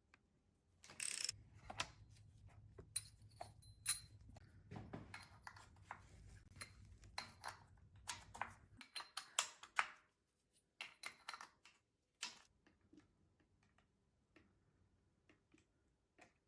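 A run of small metallic clicks, clinks and knocks, some ringing briefly, like metal parts and tools being handled, over a low hum that stops about halfway through.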